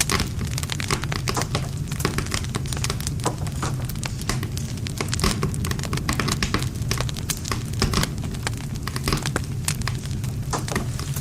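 Wood fire burning with dense, irregular crackling and popping over a steady low rumble of flames.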